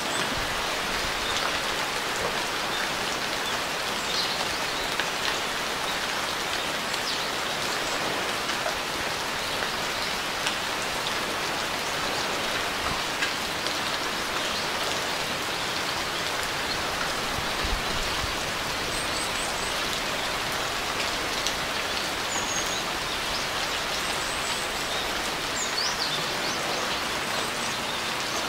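Steady rain falling in an even hiss of drops, with a few faint high bird chirps in the second half.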